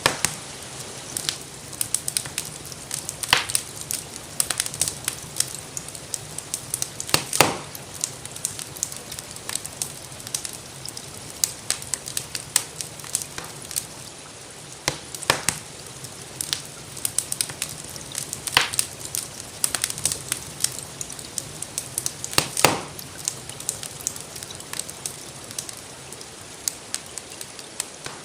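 Wood fire crackling with many small sharp snaps and a louder pop every few seconds, over the steady hiss of gentle rainfall.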